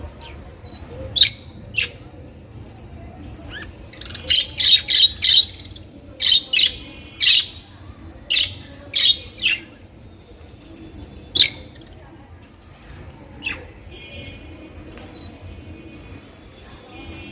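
Budgerigars calling: short, sharp chirps in irregular runs, densest through the middle, then softer warbling chatter near the end.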